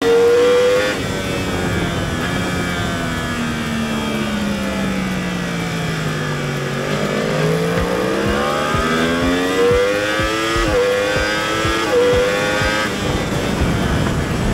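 Onboard sound of a superbike's engine at full race pace: the engine note falls as the bike brakes into a corner, with a downshift about a second in. It then rises as the bike accelerates hard out of the corner, with quick upshifts twice near the end, over steady wind noise.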